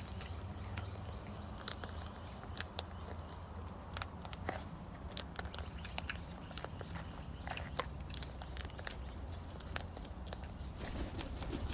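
A cockatoo crunching and cracking food in its beak, a run of short, irregular clicks and crackles, over a steady low hum.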